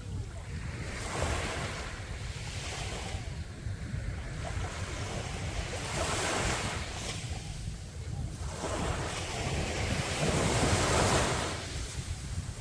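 Sea waves breaking and washing on a beach, the surf swelling and falling back every few seconds, loudest near the end. Wind rumbles on the microphone underneath.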